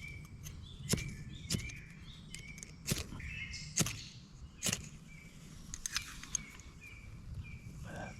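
Ferrocerium rod (fire steel) struck with a scraper about five times at irregular intervals, each a sharp quick scrape, throwing sparks onto cotton tinder to light a campfire. Birds chirp in the background.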